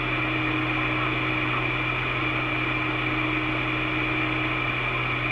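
Steady hiss and low hum of an open two-way radio channel between transmissions, with no voice on it.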